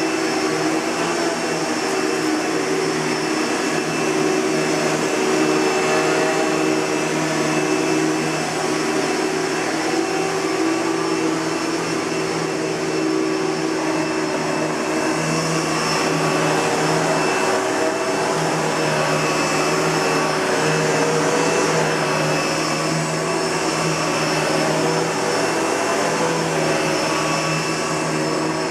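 Kenmore Progressive bagged upright vacuum cleaner, built by Panasonic, running steadily with an even motor whine.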